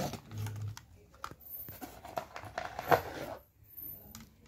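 Toy RC car packaging and parts being handled: irregular rustling with scattered clicks and a sharp click about three seconds in.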